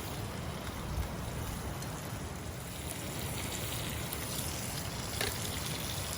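Steady rushing of a river, with wind buffeting the microphone; a single sharp click about five seconds in.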